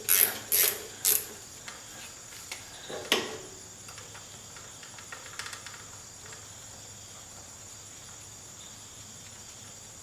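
A few sharp metallic clinks and knocks of hand tools on metal, several close together in the first second, a louder one about three seconds in, then only a faint steady hiss.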